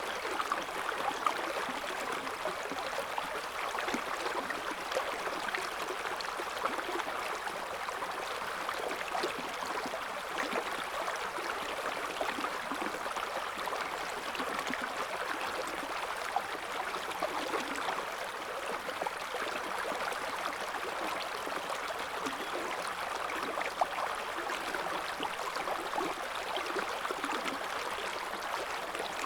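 River water flowing over stones: a steady rush with many small splashes and gurgles.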